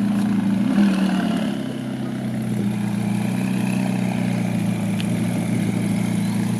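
A car engine running with a steady low drone, easing off slightly about a second and a half in.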